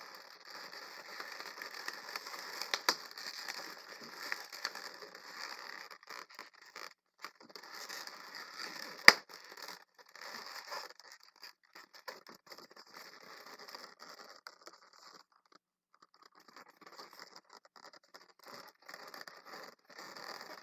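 Latex balloons rubbing and scraping against each other as a balloon sculpture is handled, in uneven stretches with brief pauses. There is a sharp click about nine seconds in.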